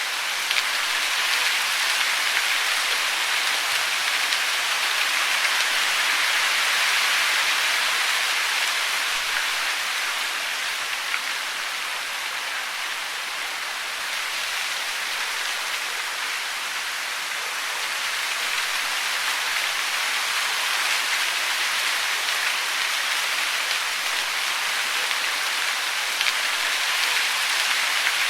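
Falling water making a steady, even hiss with a few faint ticks like drops.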